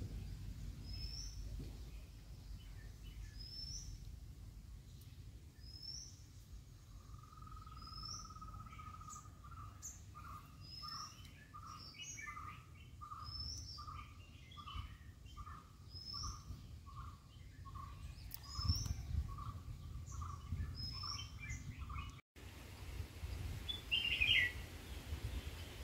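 Wild birds calling outdoors. A short high chirp repeats about once a second, and about a quarter of the way in a lower call starts with one long note, then runs on as a steady series of notes until it cuts off near the end. A low rumble sits underneath.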